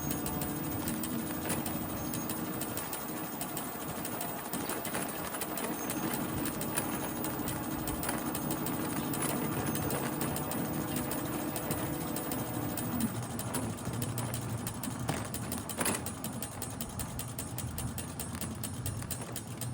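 A bike being ridden, making a rapid, steady mechanical clicking: the irritating bike noise that needed upkeep to fix. A low hum runs under it and stops about two-thirds of the way through.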